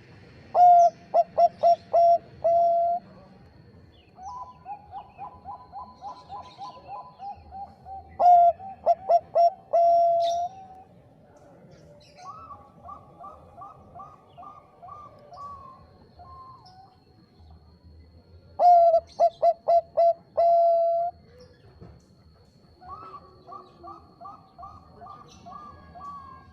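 Bangkok-type zebra dove (perkutut) singing three loud phrases, each a few quick cooing notes ending in a long held coo. Between them, a quieter dove calls in rapid runs of short coos.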